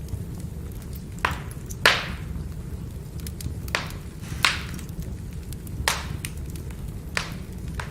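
Firewood burning: sharp crackles and pops, about six of them loud, among many faint ticks, over the fire's steady low rumble.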